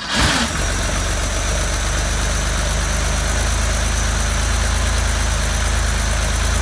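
1975 Porsche 911's air-cooled flat-six firing up in the first half second and settling into a steady idle. It is running after its contaminated fuel injection system (tank, injectors, fuel distributor, warm-up regulator, filter) was rebuilt and it had a tune-up with new points and plugs.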